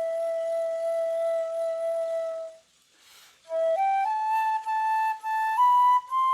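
Solo flute playing a slow melody. A long held note ends about two and a half seconds in, followed by a short breath pause, then a phrase of short notes climbing step by step to a higher pitch.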